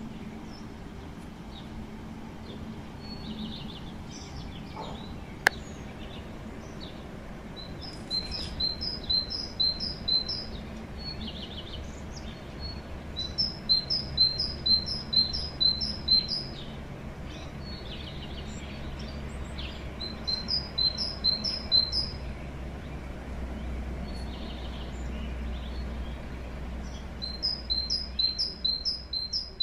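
Great tit singing its spring song: four bursts of quickly repeated high two-note phrases, a few seconds each, with fainter chirps in between. One sharp click about five seconds in.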